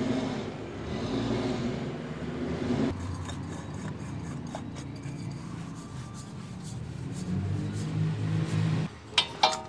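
A motor vehicle's engine running at a steady hum, its pitch dropping about three seconds in and the sound stopping abruptly about nine seconds in, followed by two sharp clicks.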